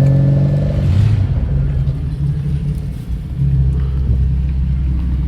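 Car engine running at low speed with a steady low rumble, its note rising briefly in the first second.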